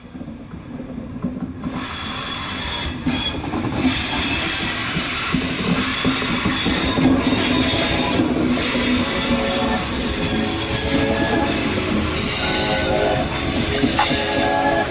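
Train running on the rails, a steady rumble with high metallic squealing from the wheels; it grows louder over the first couple of seconds, then holds.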